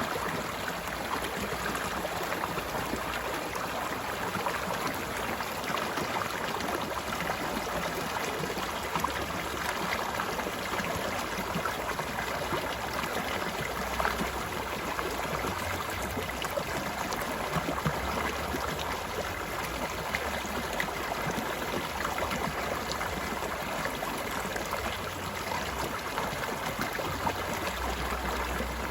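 Mountain stream running over rocks: steady rushing and gurgling water with fine splashes throughout.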